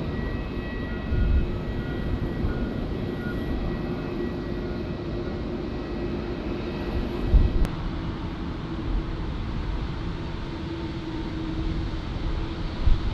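Jet airliner engines heard at a distance, a steady low rumble with a faint whine over it. A brief click comes about halfway through.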